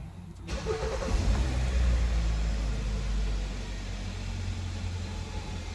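2015 Hyundai Santa Fe engine coming up to speed about half a second in, then running at a steady idle.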